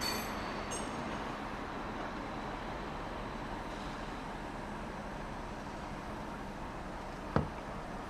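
Steady rumble of a train on the station tracks, with faint high wheel squeal dying away in the first second. A single sharp click comes about seven seconds in.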